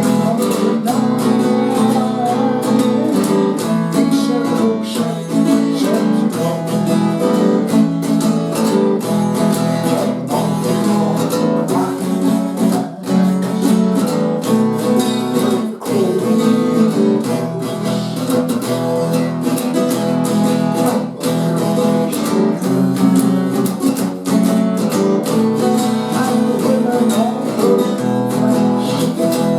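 Acoustic guitar strummed steadily in an instrumental passage of a folk song, without singing.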